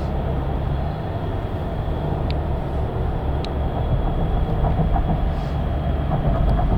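Steady low rumble of a moving vehicle's engine running, with a few faint ticks.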